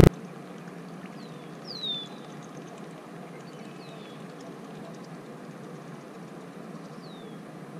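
Steady outdoor background hiss with four short, high bird calls that slide downward in pitch, the loudest about two seconds in.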